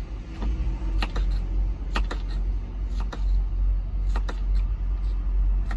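Knife dicing a jalapeño pepper on a cutting board: sharp knocks about once a second, often two in quick succession, over a steady low rumble.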